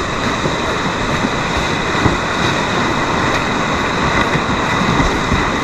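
Steady rushing noise of whitewater rapids, with a steady high-pitched drone over it.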